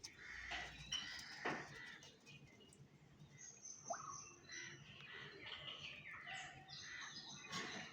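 Several birds chirping and calling, crows cawing among them, with a few short clicks.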